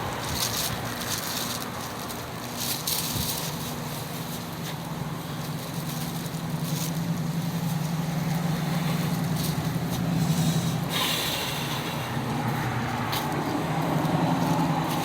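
Low, steady hum of a vehicle engine running nearby, louder from about halfway through, with scattered light clicks.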